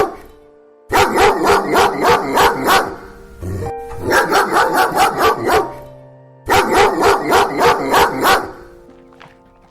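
Dog barking in three quick runs of rapid, evenly spaced barks, about seven a second, with steady background music between the runs.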